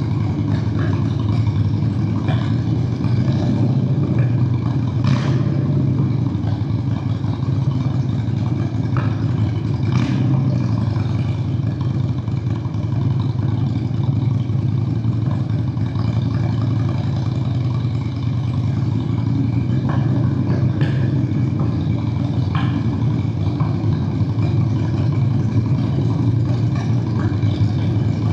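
Honda Steed VLX 600 V-twin motorcycle engine running at fairly even revs while riding, its low exhaust note steady throughout. A few faint, brief clicks sound over it.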